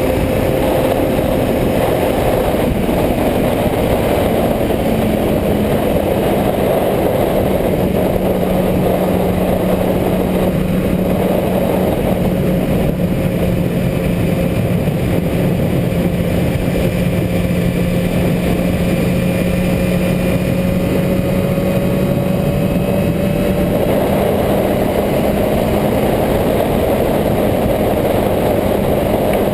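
Motorcycle engine running at a steady speed under a heavy rushing noise. The engine note drops slightly in the first several seconds and then holds steady.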